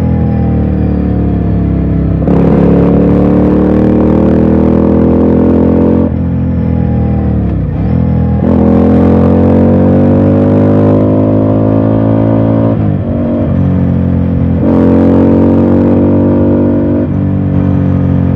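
Ducati Scrambler's L-twin engine under way, its note climbing slowly through three long pulls under throttle, about six seconds apart. Between the pulls it eases off, with a quick drop in revs at each gear change.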